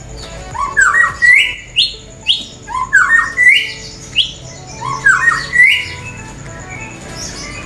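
A pet songbird singing a repeated phrase of quick notes stepping up in pitch, ending on a few higher notes, three times about two seconds apart.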